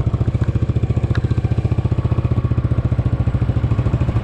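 Motorcycle engine running with a steady, rapid beat of firing pulses.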